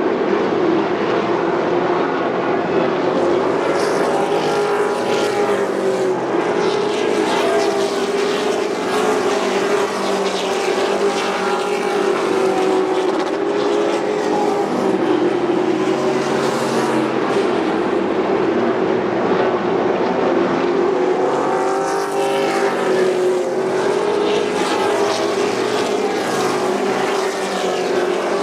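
Race trucks' engines running at racing speed in a continuous loud drone, with the pitch rising and falling as trucks pass, more noticeably around a few seconds in and again past the twenty-second mark.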